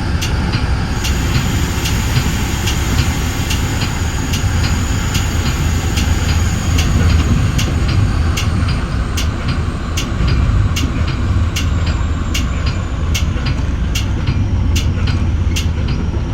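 Metra bi-level commuter train running along the track, heard from inside the front cab car: a steady low rumble with sharp clicks from the wheels at an even pace, about one to two a second.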